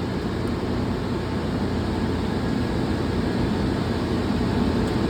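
Steady low machinery noise, like a fan or blower running, holding level with no change.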